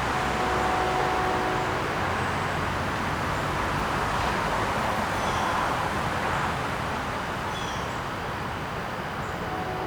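Outdoor garden ambience: a steady rushing background noise, with a few short high bird chirps, about twice.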